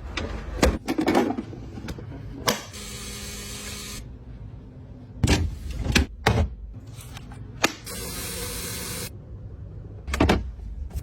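Food containers and bottles being handled and set into a refrigerator: a series of separate knocks and clacks, with two stretches of steady sliding or rustling noise, one near the start and one a little past the middle.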